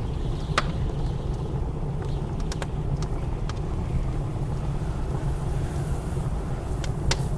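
Blizzard wind blowing as a steady low rumble, with a wood fire in a fireplace giving scattered sharp crackles and pops.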